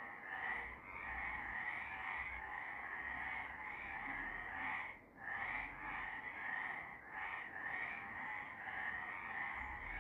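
Chorus of many frogs calling together, a dense run of overlapping calls with a brief lull about five seconds in.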